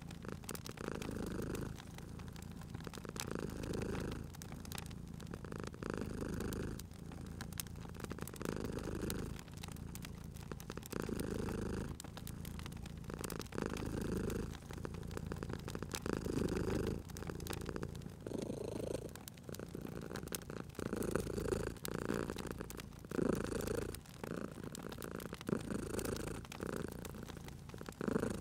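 Cat purring in a steady rhythm, swelling with each breath about every second and a half. Crackling wood fire pops and snaps over it.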